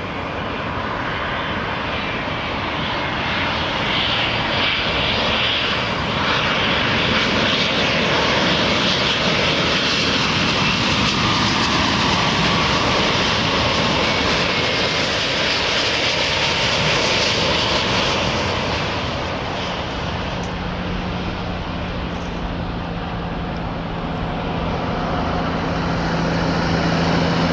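Jet engines of a Boeing 787-10 airliner on final approach to landing, a steady roar that swells as the plane passes close, eases, then builds again near the end. A low steady hum joins about two-thirds of the way through.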